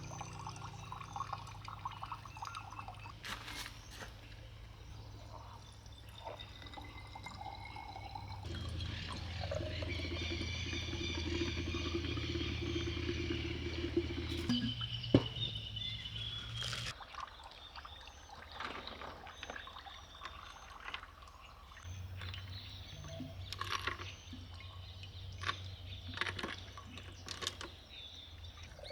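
Water being poured and trickling, with scattered light knocks.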